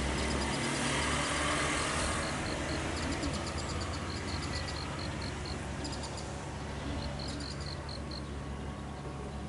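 Kintetsu 8400-series electric train running away into the distance, its rumble slowly fading, while insects chirp in runs of high pulses at about four a second.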